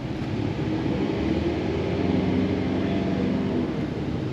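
Engine of a passing car or truck running at low revs; it grows louder toward the middle and then fades away.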